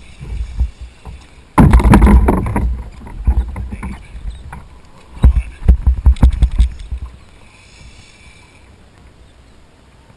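Handling noise on a kayak on the water: a sudden loud rushing noise about one and a half seconds in, then a cluster of sharp knocks a few seconds later.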